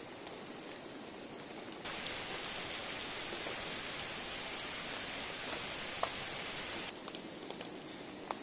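Light rain falling steadily on leaves and the ground, with a brighter, louder hiss of rain from about two seconds in to about seven. There is a single sharp tick about six seconds in.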